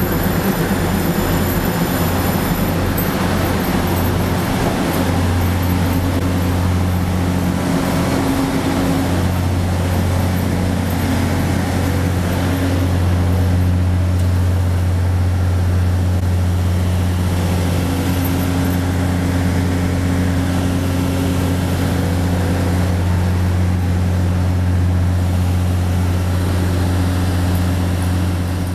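Train at a station platform giving a steady low hum with a couple of higher tones above it, pulsing unevenly for the first few seconds before settling into a continuous drone.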